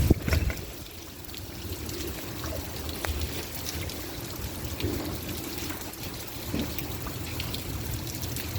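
Rainwater pouring and trickling steadily during a thunderstorm, with scattered ticks of drops landing. A sharp loud thump right at the start.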